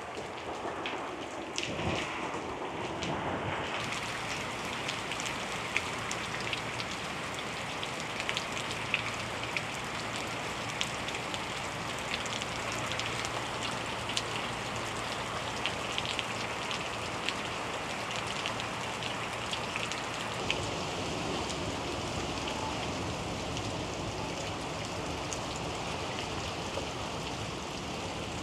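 Hurricane rain falling steadily and pattering on surfaces, with many sharp individual drop hits.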